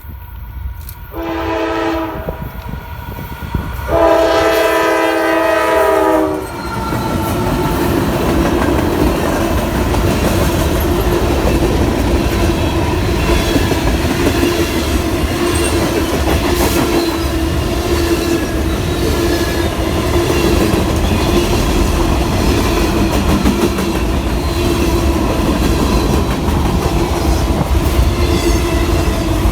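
Norfolk Southern freight locomotive sounding two long blasts on its multi-chime air horn, the second louder, then the train passing close by with a steady rumble and the clickety-clack of wheels over the rail.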